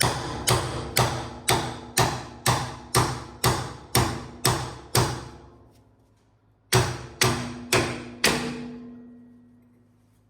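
A hammer tapping a steel truck-spring U-bolt into place: eleven ringing metal strikes about two a second, a pause of a second and a half, then four more. A ringing tone hangs on after the last strike.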